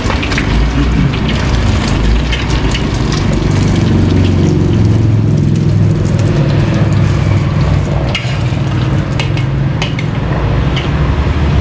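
Egg frying in a wok: a steady sizzle, with a metal spatula scraping and clicking against the wok now and then, over a low rumble.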